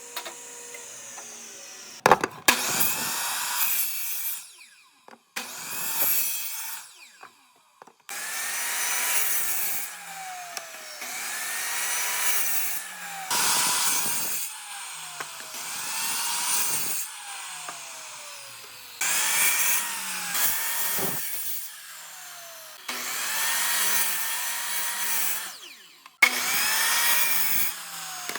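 A power tool working wood in repeated passes, each lasting one to three seconds, its motor pitch dipping and recovering under load.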